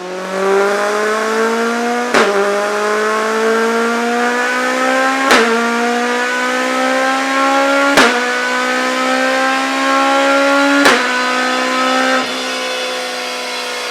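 Citroën AX 4x4's 1.6-litre 16-valve four-cylinder engine pulling hard through the gears: the pitch climbs in each gear, and a sharp crack and a drop in pitch mark each of four upshifts. It then runs at a steadier, slightly lower pitch near the end.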